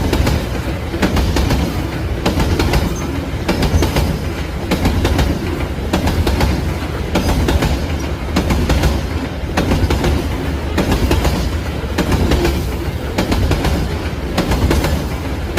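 Wagons of a long Babaranjang coal freight train rolling past, wheels clattering over rail joints in a steady repeating rhythm over a continuous low rumble.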